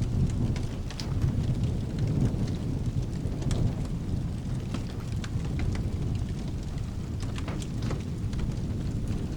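Rain falling with a low, continuous rumble of thunder underneath, dotted with scattered sharp crackles.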